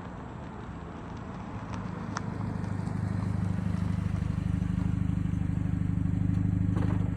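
2012 Honda Civic's 1.8-litre four-cylinder running through an eBay Fireball muffler with the resonator still in place, a deep, steady exhaust drone at even revs. It grows louder over the first few seconds and then holds.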